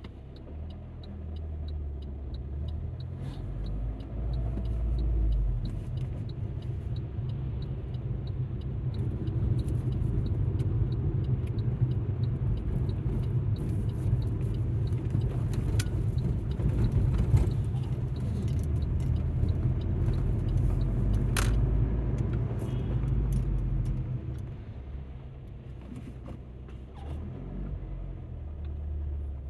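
Alfa Romeo MiTo being driven, heard from inside the cabin: a low rumble of engine and road noise that swells through the middle and eases off about three-quarters of the way in. There is one sharp click about two-thirds of the way through.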